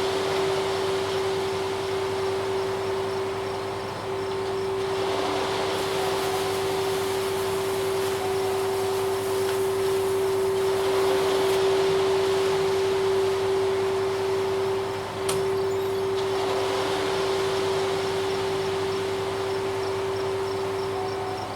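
Ready-mix concrete truck running, with a steady whine held on one note over the engine noise.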